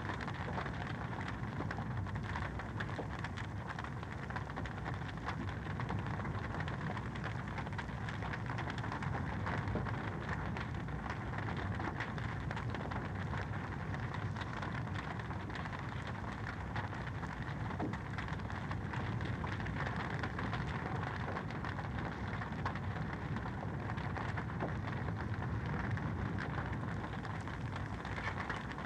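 Wood fire crackling in a fireplace: a dense, steady crackle of many small pops.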